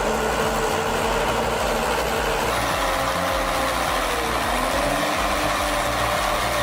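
Valmet 840.3 forwarder's diesel engine running steadily while the machine is stuck in deep ruts, its pitch wavering a little as it works.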